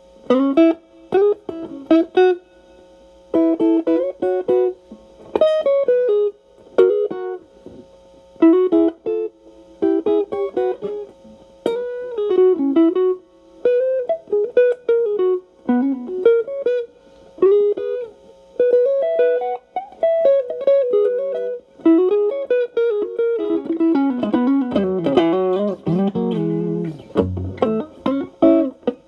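Fender Stratocaster played through a Xotic AC Plus overdrive with both channels stacked (Ch. A boosting the Ch. B drive) into a Marshall Valvestate amp: overdriven single-note lead phrases with string bends, broken by short pauses, getting busier with lower notes near the end.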